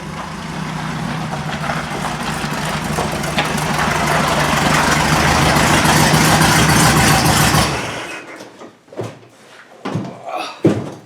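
A VW dune buggy's engine running, growing steadily louder for about seven seconds and then cutting off. A few separate knocks follow near the end.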